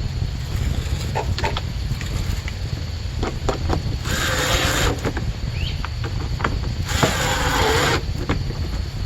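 Hands working on a plastic HVAC box as an actuator motor is fitted: scattered clicks and knocks, then two noisy bursts of about a second each, over a steady low rumble.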